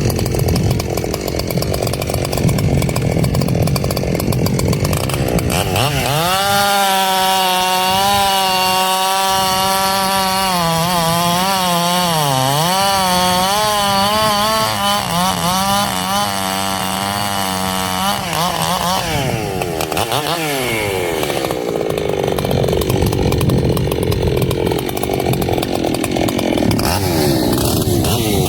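Echo CS-7310 two-stroke chainsaw running at high revs and cutting wood. The engine pitch holds with small dips as the chain loads up, falls away for a moment a little past the middle, then the saw revs and cuts again.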